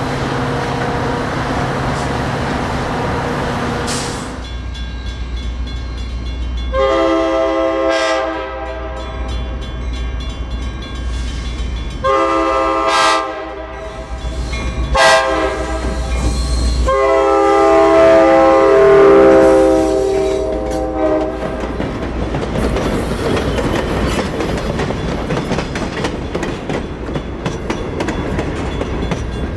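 Passenger diesel locomotive's multi-chime horn sounding three blasts over the low rumble of an oncoming train, the last blast the longest. The train then rumbles past with wheel clatter.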